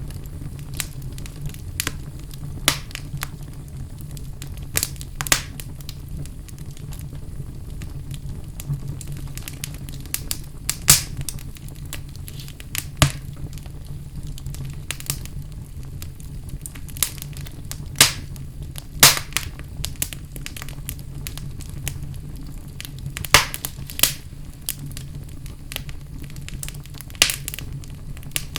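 Wood fire burning in a fireplace, crackling with irregular sharp pops over a steady low rumble. The loudest pops come around the middle and about two-thirds of the way in.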